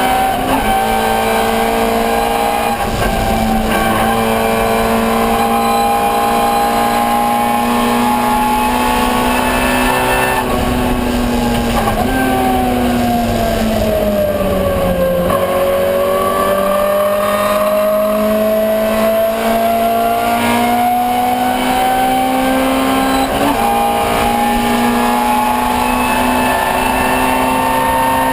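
Ford Escort 1300GT's four-cylinder 1300 cc engine racing at high revs, its pitch slowly climbing. About halfway the revs fall away over a few seconds, then climb steadily again.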